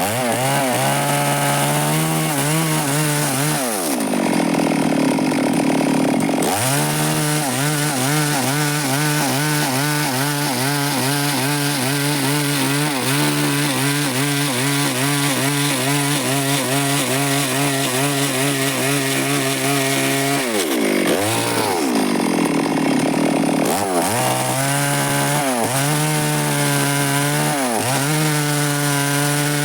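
Stihl chainsaw running at high revs while sawing wood, its engine note dipping and climbing back several times.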